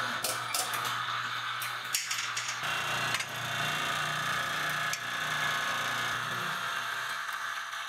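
Electric winch hoist motor running steadily, with a few clicks and rattles, easing off near the end.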